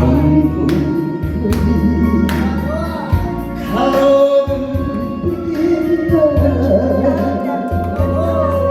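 A song sung over instrumental backing music, with long held bass notes under the voice.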